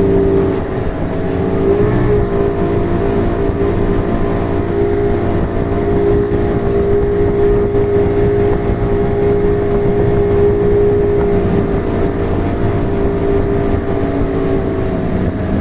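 Motorboat engine running at a steady pitch while towing a banana boat over the water, with a low rushing noise underneath. The engine note dips briefly about a second in, then climbs back and holds steady.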